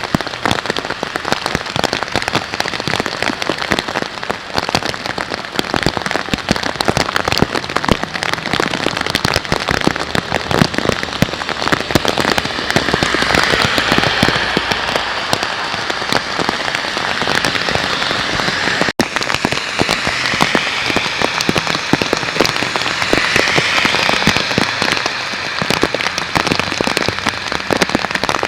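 Heavy thunderstorm rain falling hard and steadily, a dense close patter of raindrops striking surfaces.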